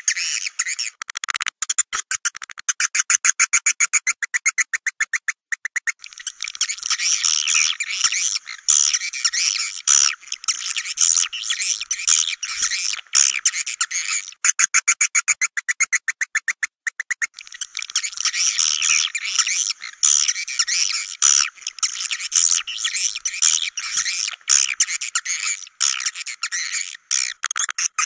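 Swiftlet lure recording: dense, high chirping twitters alternating with long runs of rapid, evenly spaced clicks, with no low sound at all. It is the call-and-roost sound played to draw swiftlets into a nesting house.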